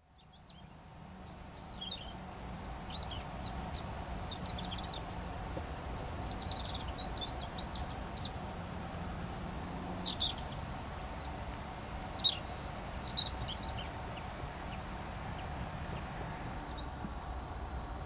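Many short, high bird chirps and twitters in quick scattered bursts, thinning out in the last few seconds. Beneath them runs a steady low rumble of background noise. The sound fades in at the very start.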